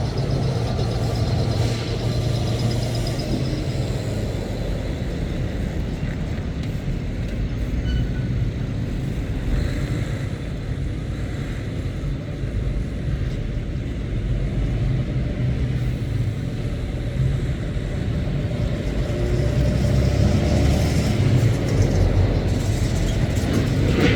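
Diesel lorry engines running as heavy goods vehicles pass, a steady low rumble that grows louder near the end.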